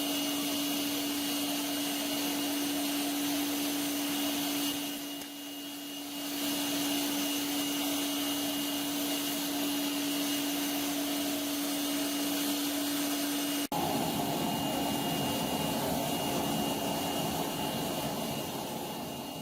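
An electric power tool running steadily at one pitch, dipping briefly about five seconds in. After an abrupt break about fourteen seconds in, it runs on with a changed, noisier sound.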